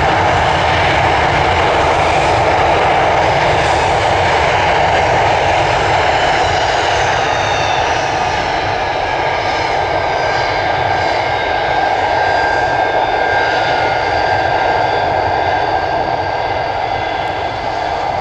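Loud jet noise from a Boeing 727-200's three Pratt & Whitney JT8D turbofans at takeoff power. A steady rush carries high whining tones that come in about seven seconds in, and the sound fades slightly near the end.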